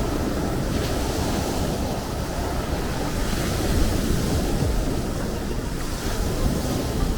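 Sea waves breaking and washing in, in repeated swells, over a continuous low rumble of wind buffeting the microphone.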